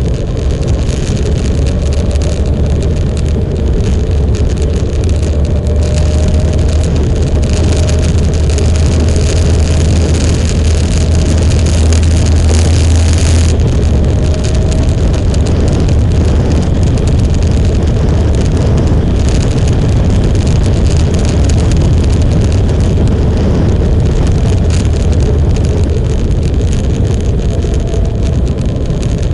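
Motorcycle engine running under way with heavy wind rush over the microphone; the engine note climbs slowly several times, and the wind eases about halfway through.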